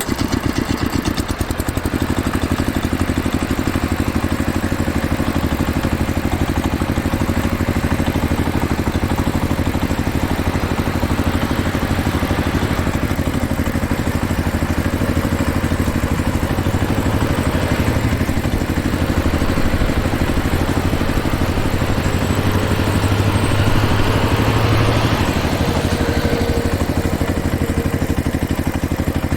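An engine running steadily at idle, with a slight swell in level about three-quarters of the way through.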